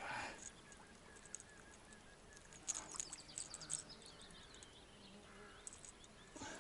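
Faint outdoor ambience with small birds chirping, and a few brief clicks and rustles about halfway through.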